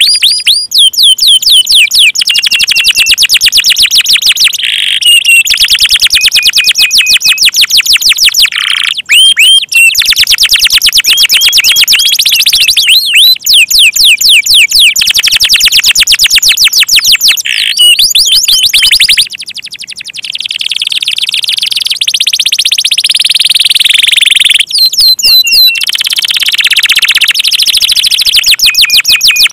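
Canary singing loud, fast song: rapid runs of repeated sweeping notes and rolling trills, broken by brief pauses.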